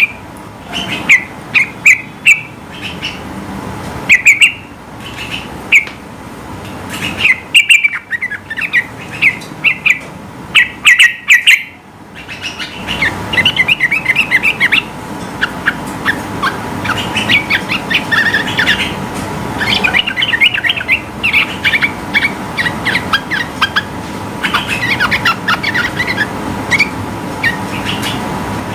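Yellow-vented bulbul singing: loud bubbling chirps in short bursts, running into a long, rapid chattering phrase about halfway through.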